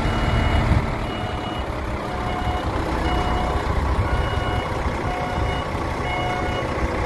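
A truck's reversing alarm beeping about once a second over its engine running, the engine a little louder in the first second.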